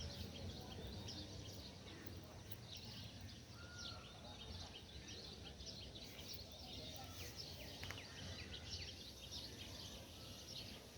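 Faint birds chirping, many short high calls scattered throughout, over a low steady background rumble.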